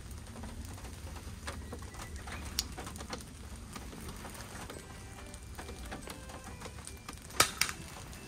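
Rain dripping in scattered, irregular ticks over a low steady rumble, with two sharper clicks near the end.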